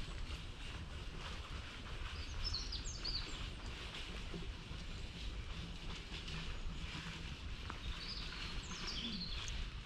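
Birds chirping in two short spells, a couple of seconds in and again near the end, over a steady low outdoor rumble.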